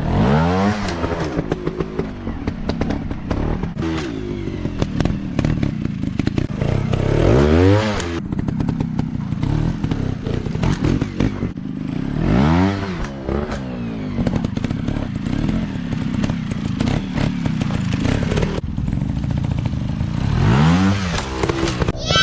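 Dirt bike engine revving in four surges, each climbing sharply in pitch and falling back, over a steady engine note with scattered clattering.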